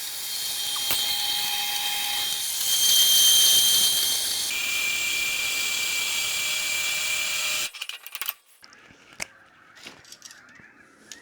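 Angle grinder grinding galvanised steel tube: a steady high-pitched whine over a hiss. The whine drops in pitch about four and a half seconds in, and the grinder cuts off suddenly about two-thirds of the way through. A few light taps and clicks follow.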